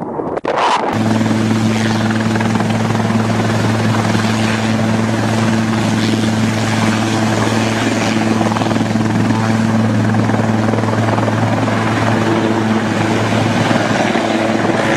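Helicopter running: a steady, loud low hum with a couple of higher overtones over a broad wash of rotor and engine noise. It starts abruptly about a second in, after a short dropout.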